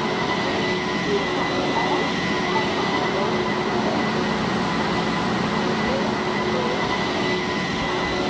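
Steady train noise: a continuous rumble with faint steady hums, under a murmur of distant voices.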